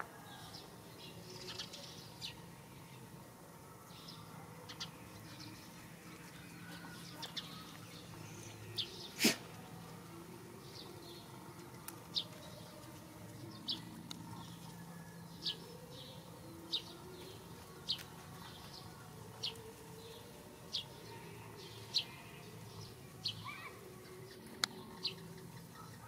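A bird repeating a short, high chirp, steadily about every second and a half in the second half, over faint outdoor background noise. A single sharp click about a third of the way in is the loudest sound.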